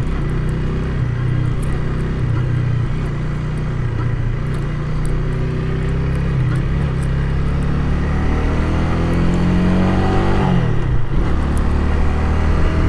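Honda Rebel 300's single-cylinder engine running under way. The engine note climbs for several seconds as it accelerates, then drops sharply near the end with a gear change.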